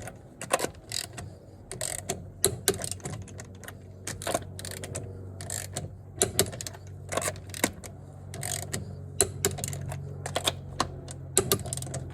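Torque wrench ratcheting and clicking as the wheel nuts are tightened to 130 Nm in a star pattern, sharp irregular clicks coming in clusters. A steady low hum runs underneath.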